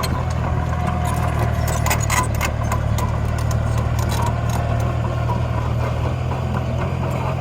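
Heavy machinery's engine running steadily, a low even drone, with a few faint clicks and knocks over it.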